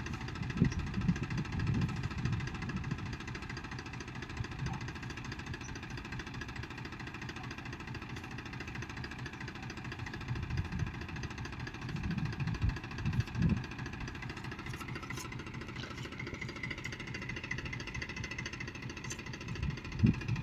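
Farm machine's diesel engine running steadily, with louder low surges near the start and again about twelve to thirteen seconds in.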